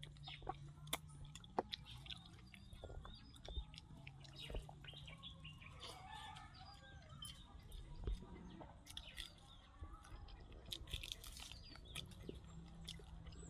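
Eating sounds: chewing and many short wet clicks and smacks of someone eating with the hands. Birds chirping and chickens calling in the background.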